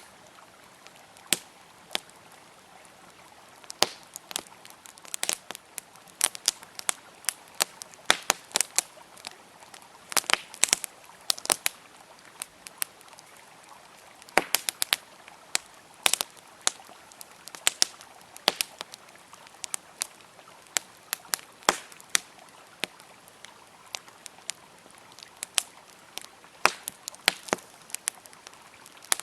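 Wood fire crackling, with sharp pops coming irregularly, sometimes in quick clusters, over a faint steady rush of flowing river water.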